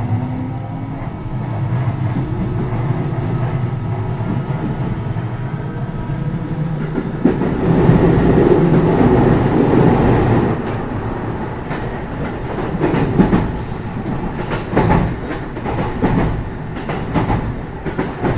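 Running noise inside a JR West 207 series electric train's motor car. The power-transistor VVVF inverter and traction motors whine with a rising pitch at the start as the train accelerates. This gives way to steady wheel and motor noise at speed, which swells louder about seven to ten seconds in. Rail-joint clacks come through in the last few seconds.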